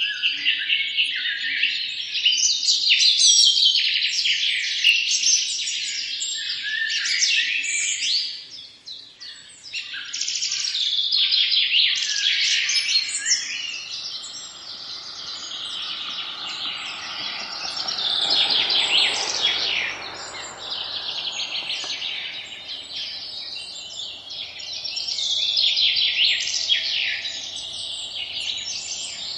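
A dense chorus of many small birds chirping and twittering at once, with a brief lull about a third of the way in and a soft rushing sound swelling under the calls in the middle.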